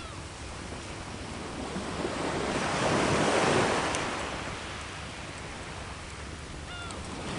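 Sea waves washing onto the shore: one wave swells up, peaks about three seconds in and draws back, and the next begins building near the end.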